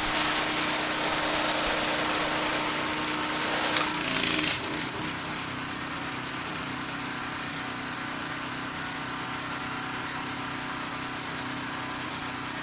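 Gas-engine pressure washer spraying mildew cleaner through the low-pressure black soaping tip, a loud steady hiss of water over the engine, for about four seconds. Then the spray cuts off and the engine keeps running steadily at a slightly lower pitch.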